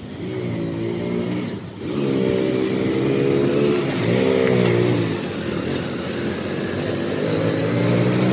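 Passing motor vehicle engines, rising and falling in pitch several times as they rev and go by.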